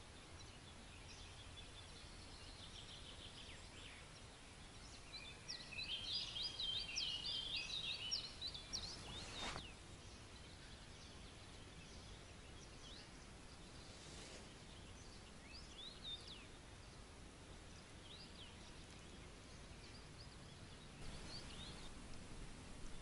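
Small birds singing over a faint steady outdoor hush: a burst of rapid, chattering song from about five to nine seconds in, ending at a short click, then scattered single chirps.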